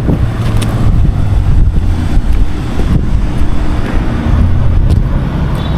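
Low rumble of wind buffeting the microphone, with a vehicle engine running steadily underneath.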